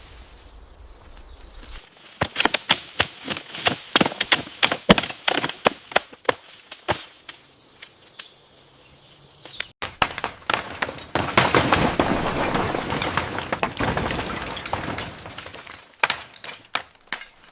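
A rapid run of sharp knocks and cracks, then, from about ten seconds in, a dense, continuous crackling and breaking that thins out near the end: the sound of building material being knocked and broken apart.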